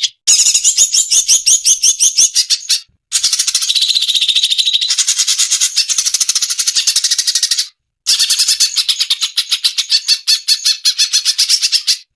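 Cucak cungkok birdsong: fast, chattering runs of rapidly repeated high notes, many to the second, in stretches of three to five seconds. The stretches are broken by brief, sudden silences, as in a song-training (masteran) track made with pauses.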